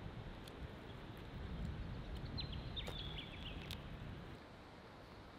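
Outdoor bush ambience: a low rumbling noise that eases about four seconds in. A bird gives a few short, high chirps near the middle.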